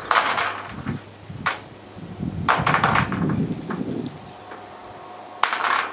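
A series of sharp metallic knocks and clatters, each with a brief ringing: one at the start, one about a second and a half in, a cluster around the middle and a last one near the end. The sound is of solar-panel mounting rails and their fittings being handled and knocked into place.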